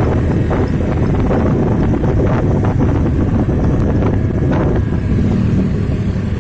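Trucks running past on the road in a steady low rumble, with wind buffeting the microphone.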